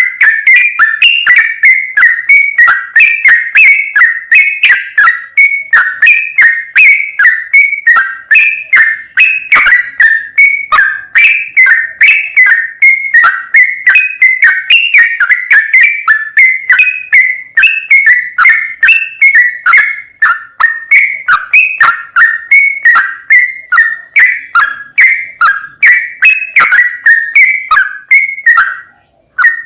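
Yellow-vented bulbul (trucukan) song: a long, unbroken run of quick, bubbling whistled notes, several a second, with one short break near the end. This is the long 'ropel' song used as a lure to get other trucukan singing.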